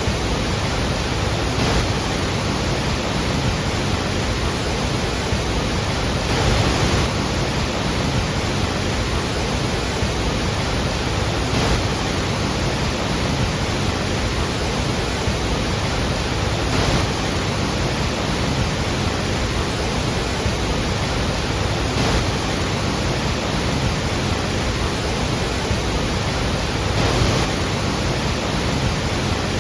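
Steady roar of the Iguazú Falls, a great mass of water crashing down, an even, unbroken rush with slight swells now and then.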